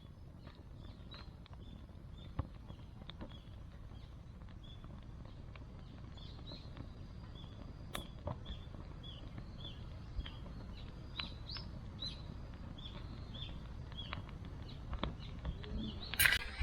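Small birds chirping again and again in short falling notes over a steady low rumble, with a few sharp clicks scattered through it.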